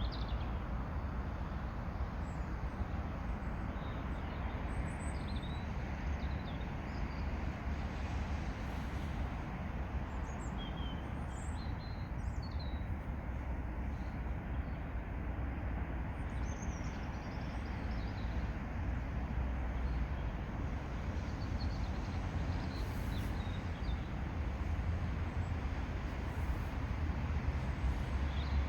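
Steady low outdoor rumble with small birds chirping now and then.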